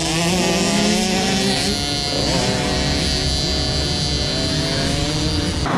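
Several motocross bike engines buzzing at once, their pitches holding and shifting a little, then cutting off abruptly near the end.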